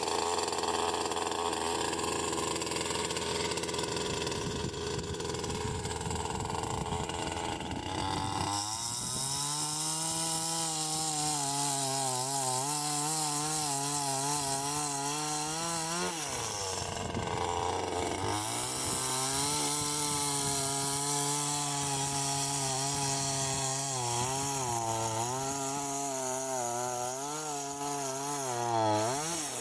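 Chainsaw running while cutting firewood logs. It is rough and uneven for the first several seconds, then holds a steady high pitch through two long stretches, with a brief drop in engine speed about halfway through.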